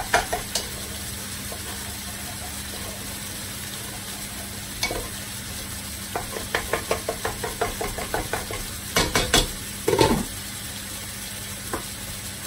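Chicken tikka pieces in a yoghurt marinade sizzling in a non-stick frying pan, a steady hiss with runs of quick clicks. A few louder knocks of cookware come near the end.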